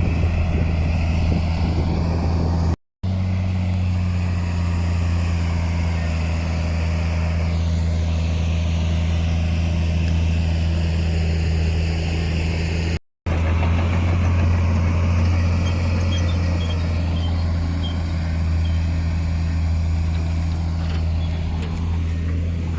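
Heavy diesel engine of earthmoving machinery running steadily at a constant speed, with a deep, even note. The sound cuts out completely for an instant twice, about three seconds in and again about thirteen seconds in.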